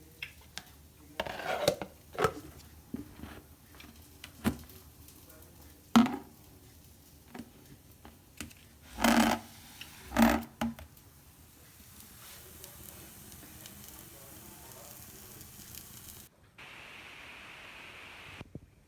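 Kitchen utensils and dishes knocking and clattering in short, scattered strikes, the loudest in a cluster around the middle. Near the end there is a steady faint hiss.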